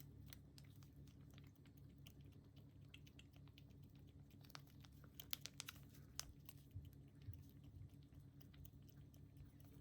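Near silence: faint scattered clicks and taps over a low steady hum, with a short run of sharper clicks about five to six seconds in.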